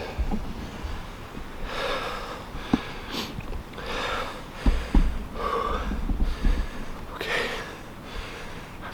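A man breathing hard after a steep climb: about five heavy, hoarse breaths, roughly one every second and a half. A few low thumps come between them, the loudest about five seconds in.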